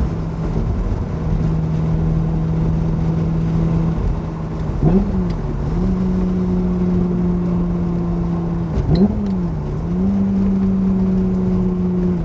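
Ferrari F355's V8 engine through a Kreissieg exhaust, running at steady revs on the road, with two quick gear changes about five and nine seconds in, each a brief dip in the engine note before it settles again.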